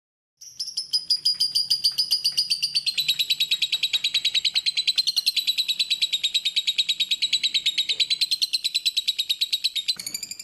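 Lovebird singing one long unbroken trill of rapid, high chirps, about ten a second. It starts about half a second in and runs on until just past the end.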